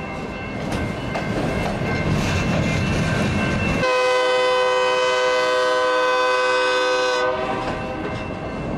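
A train running along the rails with a rumble, then a long horn blast of several notes at once from about four seconds in, lasting about three seconds, before the rumble of the train returns.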